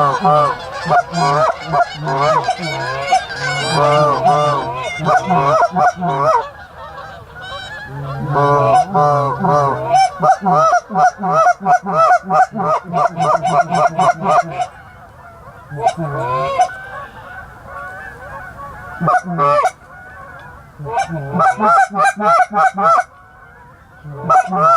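A flock of geese honking: many short, overlapping calls in bouts, easing off twice before picking up again.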